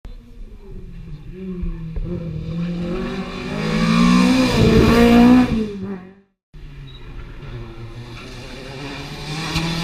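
Rally car passing at speed, its engine note swelling as it nears and dropping in pitch as it goes by; after an abrupt cut about six seconds in, a second rally car is heard approaching, its engine growing louder.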